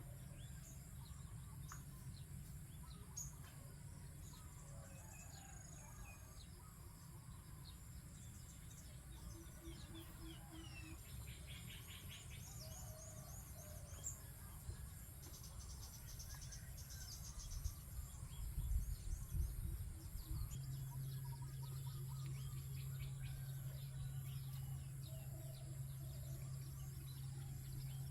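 Small birds chirping and trilling here and there over a steady low rumble, with a few louder low thumps about two-thirds in. A steady low hum comes in about three-quarters of the way through and holds.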